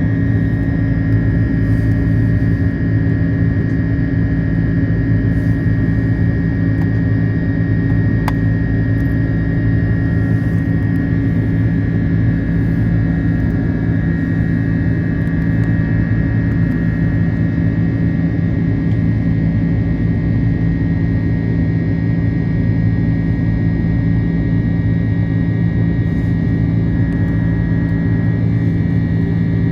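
Airbus A330-300 cabin noise in flight: the steady rush of air and engines with a constant low hum and a faint high whine.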